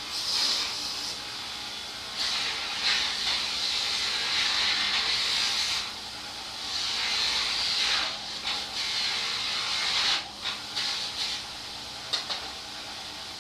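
Hissing blasts of pressurized spray cleaning carburetor parts: a short blast, a long one of over three seconds, then several shorter ones and a brief puff near the end.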